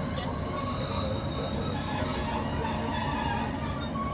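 Class 156 diesel multiple unit heard from inside the carriage, giving a steady high-pitched squeal over a low running rumble as it brakes to a stop at a platform. The squeal dies away near the end.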